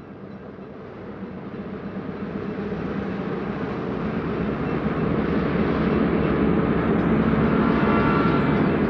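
Diesel freight train running, a steady rumble that grows louder as it draws near. Several steady tones join it near the end.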